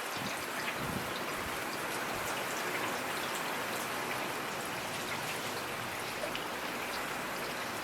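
Steady rainfall: an even hiss of rain with many individual drops ticking on a surface.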